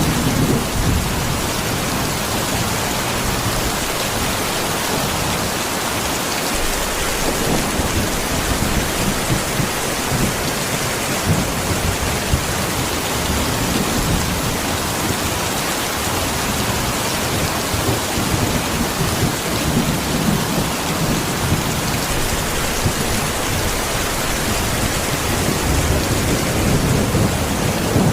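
Rain falling steadily, an even, dense hiss of rain on surfaces.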